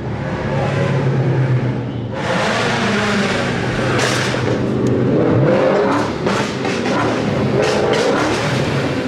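A car engine revving loudly. A low steady run gives way about two seconds in to a louder, harsher exhaust rush with wavering pitch.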